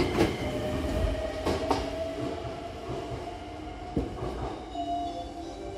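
Hankyu train at a platform: a door thumps shut just after the start, then the train's steady hum carries on with a few knocks, one about four seconds in.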